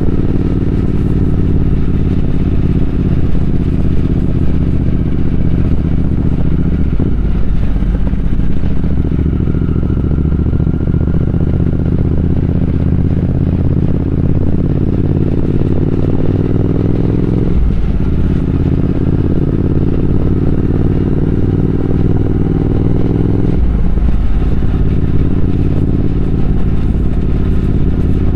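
Triumph Speed Twin 1200's parallel-twin engine running under way, its note climbing gradually. Three times (about a quarter of the way in, past halfway and near the end) the note breaks off briefly, drops in pitch, then climbs again.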